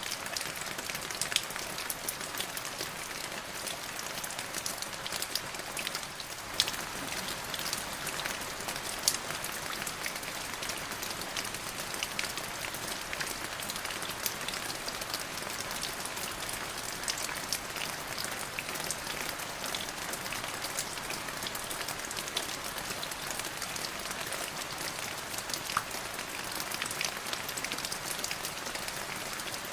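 Steady rain falling, an even hiss of many drops with scattered louder individual drop strikes.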